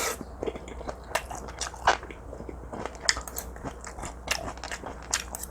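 Close-miked chewing of a mouthful of marinated grilled pork neck with onion and green onion: irregular wet clicks and small crunches.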